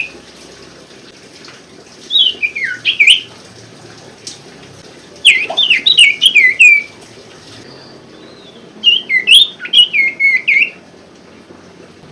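Common iora (sirtu, cipoh) singing: three bursts of quick, high chirping notes, each lasting a second or two, with short pauses between them.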